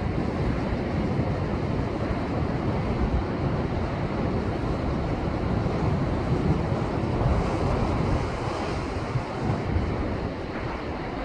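Rough post-typhoon surf breaking and surging against a rocky shore, a continuous rushing of water heaviest in the low range, with wind buffeting the microphone.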